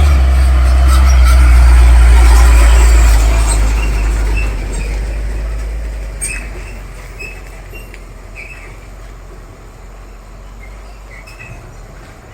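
Heavy diesel truck engine working under load with a deep low rumble, loudest in the first few seconds and then fading steadily as the truck pulls away.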